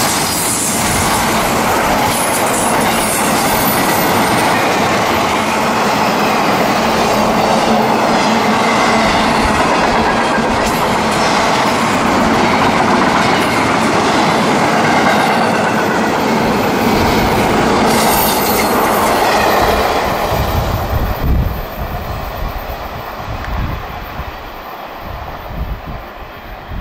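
CSX intermodal freight train's cars rolling past, a dense steady clatter of wheels on rail with some wheel squeal. The noise dies down about twenty seconds in, leaving a weaker low rumble.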